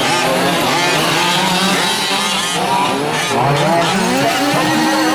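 Several 1/5-scale gas RC trucks' small two-stroke engines racing together, their pitches rising and falling as they speed up and slow down.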